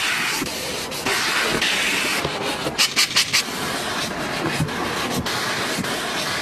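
High-pressure washer water jet hissing steadily, with four short louder bursts about three seconds in.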